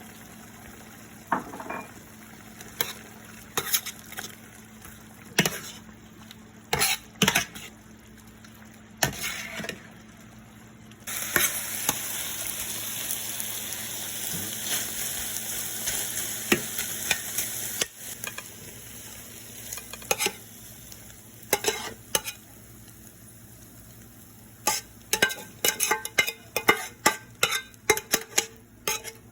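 A spoon stirring in a cooking pot, knocking and scraping against the pot in scattered clicks that come thicker near the end. Around the middle, a steady sizzling hiss runs for about seven seconds and then stops abruptly.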